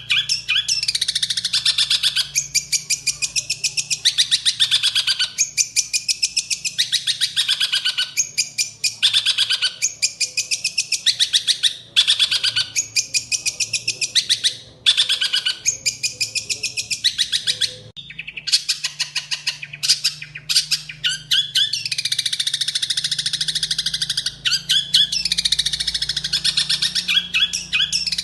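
A songbird singing nearly continuously in fast, chattering phrases of rapid high notes, with brief gaps between phrases.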